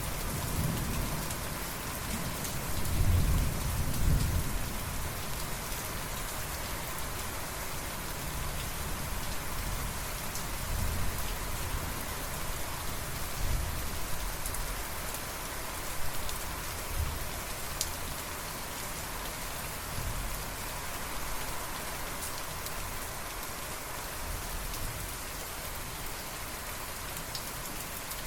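Steady rain falling, with thunder rumbling low in the first few seconds and fainter rolls later on.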